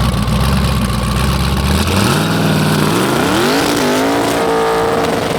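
Drag car engine held at a steady speed, then revving up about two seconds in, its pitch rising, dipping briefly and holding high near the end.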